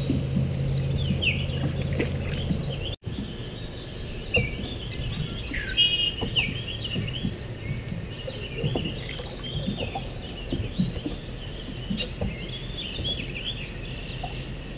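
Many songbirds chirping and singing in short calls throughout. A low steady hum underneath stops abruptly about three seconds in.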